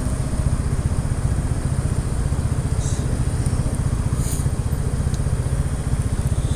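Steady low rumble with a fast, uneven flutter, with a couple of faint ticks about halfway through.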